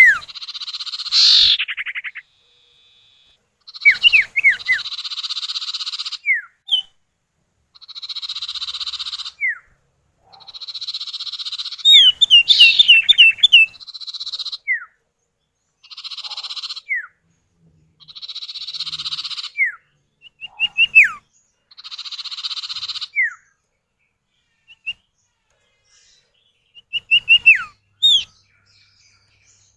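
Common iora (cipow) calls, male and female answering each other. Harsh, buzzy rasps of one to two seconds alternate with short, sharp, falling whistled notes, some in quick runs of three to five.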